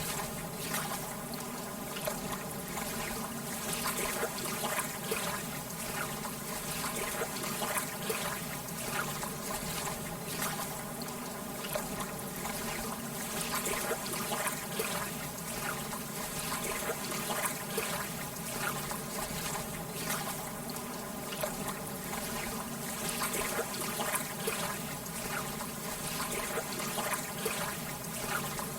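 Lake water lapping gently: a steady wash of many small, irregular splashes and trickles.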